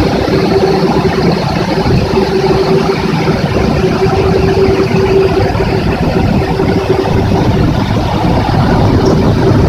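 Automatic car wash machine running: a loud, steady rushing noise with a steady motor hum.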